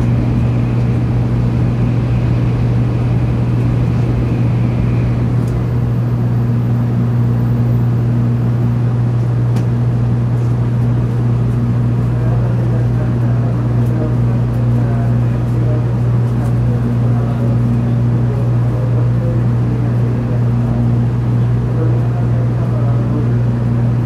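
Steady low hum inside a stationary 700 series Shinkansen car, from its onboard equipment while it stands at the platform. A few faint ticks sit over it.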